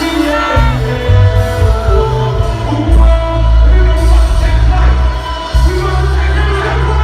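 Live hip-hop concert music through a large PA, heavy bass under a singing voice with auto-tuned-style bending pitch.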